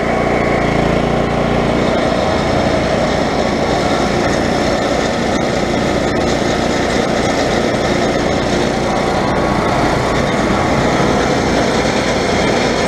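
Vibrating dirt screen switched on and shaking, run off a small gasoline generator; the generator's steady running gives way about half a second in to a dense, continuous rattle from the shaking screen. The rattle sounds like its bolts shaking loose.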